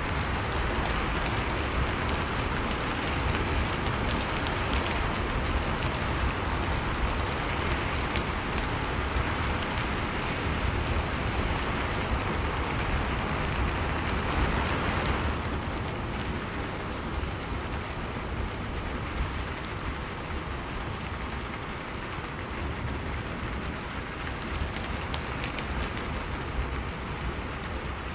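Steady rain falling, an even hiss with a low rumble underneath; it turns a little softer about halfway through.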